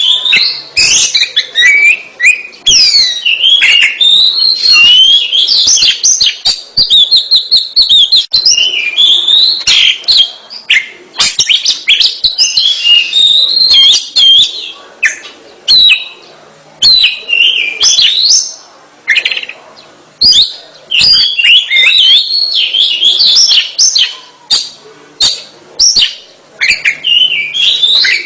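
Oriental magpie-robin (kacer) singing nonstop: a rapid, varied run of loud whistles, rising and falling glides and sharp chirps, in phrases with brief gaps.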